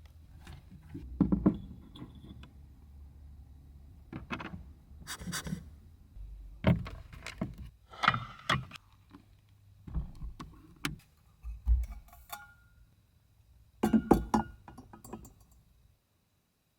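Objects being handled at close range: a run of irregular knocks, clicks and clatters with rustling between them, over a faint low steady hum, all stopping abruptly near the end.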